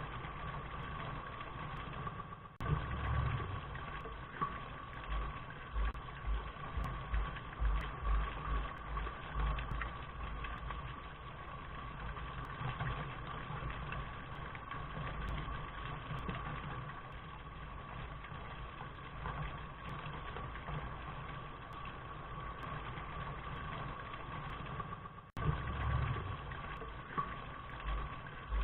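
Steady rain hiss with irregular low thumps underneath. It cuts out for an instant about two and a half seconds in and again near the end.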